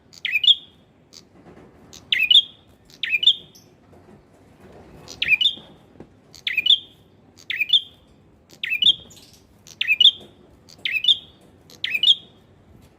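Male prenjak (prinia) calling: a short, sharp chirping call repeated about ten times, roughly once a second, with brief pauses after the first and third calls.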